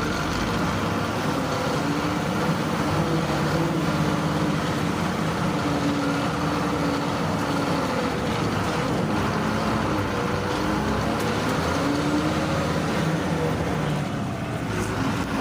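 Heavy diesel engines running steadily under load, their pitch wavering slightly, as tractors and a truck strain to pull the truck out of mud.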